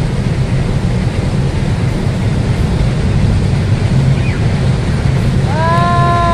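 Container freight train passing: a steady rumble of wagons rolling on the rails, mixed with wind on the microphone. Near the end a voice calls out once in a long held note that falls away.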